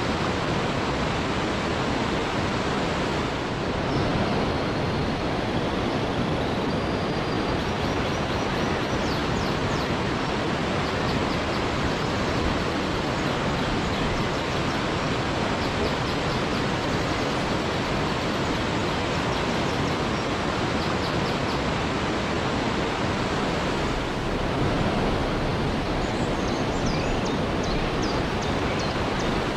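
Waterfall rushing steadily. Faint high chirps sound through it a few times, about a third of the way in and again near the end.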